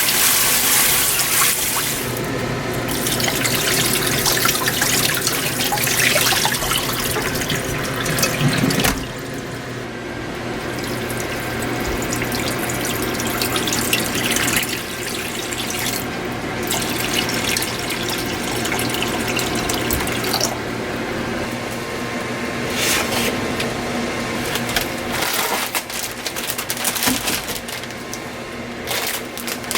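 Water running from a tap into a sink, its hiss changing as the flow or what it hits shifts, with small knocks and clinks of things being handled in the sink.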